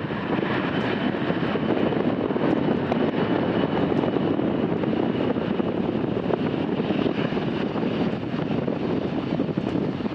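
Jet engines of a Saudia Boeing 787-10 Dreamliner landing on the runway: a steady low rush with a faint high whine above it.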